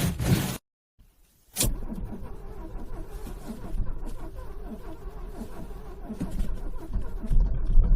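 A car's starter cranking a cold engine in slow, even turns, after a sharp click as the key is turned. It gets louder and heavier near the end.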